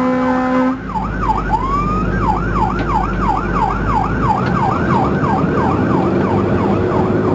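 Fire truck's horn blaring for just under a second, then its siren in a fast yelp, sweeping up and down about three times a second, over the truck's engine running.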